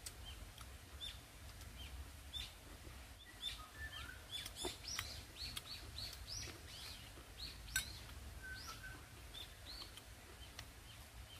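Small songbirds chirping: many short, high chirps in quick succession, thickest in the middle, over a faint low rumble, with a few soft clicks.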